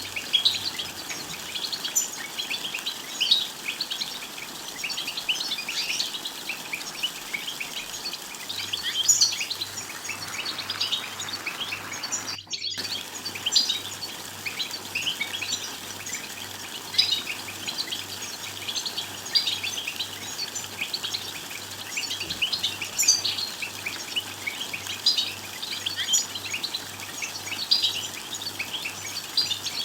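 European goldfinch twittering: a fast, unbroken run of high chirps and short trills, cut off by a brief gap about halfway through.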